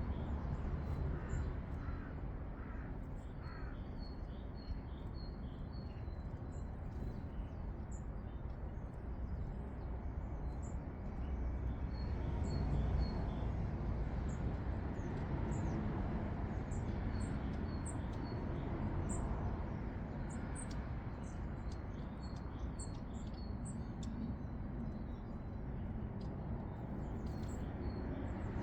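Garden birds chirping, with many short high calls throughout and a run of four harsher, lower calls near the start, over a steady low background rumble.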